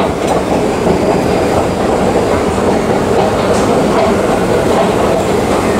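A subway train running steadily along the track, a continuous loud noise of the moving cars.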